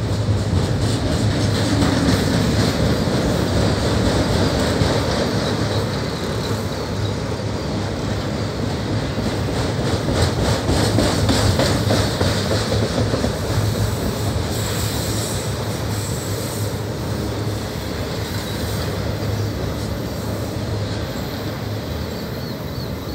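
Freight train's autorack cars rolling past: a steady rumble of steel wheels on rail, with clicking over the rail joints that grows denser around the middle.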